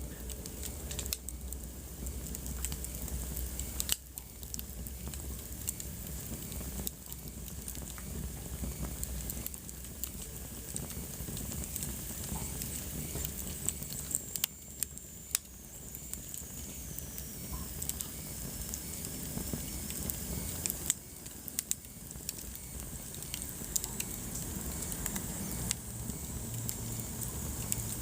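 Wood fire burning in a fireplace: a steady soft rush of flame with irregular sharp crackles and pops from the burning logs. Around the middle a faint high whistle slides down in pitch.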